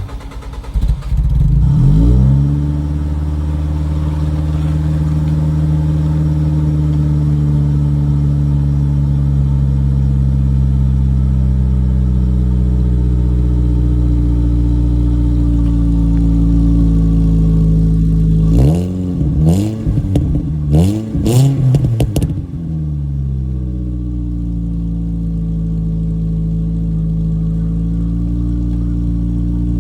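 2005 Ford Focus ZX3's four-cylinder engine through an FSWerks Stealth aftermarket exhaust: it starts about a second in, flares up and settles into a steady idle. About two-thirds of the way through it is blipped in a quick series of revs, then drops back to idle.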